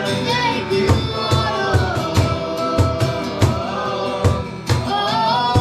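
Worship band music with several voices singing a held, gliding melody over a steady drum beat.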